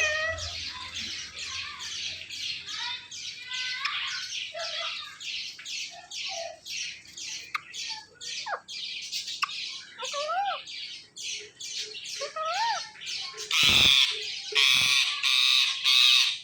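Indian ringneck parrots calling: a rapid run of short, high squawks at about four a second, with a few rising-and-falling whistled notes in the middle, then louder, harsher screeches near the end.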